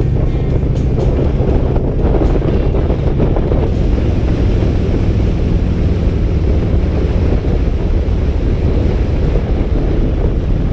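Rushing wind on a Harley-Davidson rider's camera microphone at road speed, with the motorcycle's engine running steadily beneath it.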